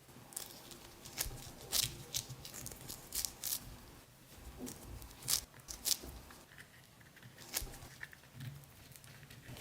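Close-miked ASMR food sounds: irregular crisp tearing and crunching, a string of sharp crackles spread unevenly over several seconds.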